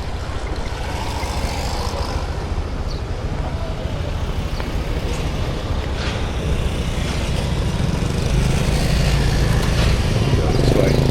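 Motorbike engine running with road noise while riding, getting louder about eight seconds in.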